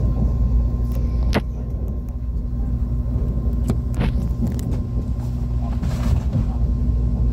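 ITX-Maum electric multiple-unit train running, heard inside the carriage: a steady low rumble with a constant hum, and a few sharp clicks, one a bit over a second in and two around four seconds in.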